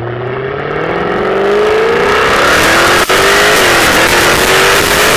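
2015 Jaguar F-Type Coupe's supercharged V6 accelerating hard, its pitch climbing and the sound growing louder, with a quick upshift about three seconds in before it pulls again.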